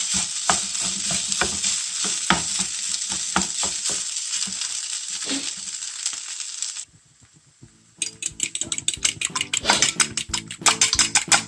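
Fried-rice ingredients sizzling in a frying pan while a spatula stirs and taps them, giving irregular clicks over the steady sizzle. The sizzling stops about seven seconds in, and after a second's pause plucked-guitar music with a steady beat begins.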